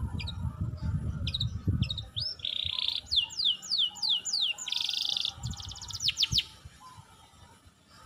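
A songbird sings a varied phrase: quick rising whistled notes, two buzzy trills, a run of about six falling slurred notes and a few sharp notes, ending about six and a half seconds in. A low rumbling noise sits under the first two seconds.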